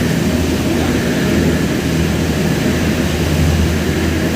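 A heavy engine running steadily with a constant low hum under a wash of noise.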